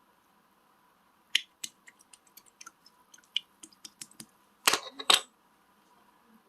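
Slime being handled: a run of small sharp popping clicks from about a second in, then two louder, longer squishes near the end.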